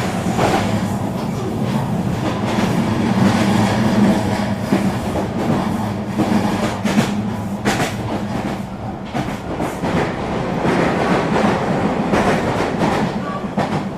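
Eurobahn regional train running at speed: a steady rumble with scattered clicks and clacks of the wheels over the rail joints.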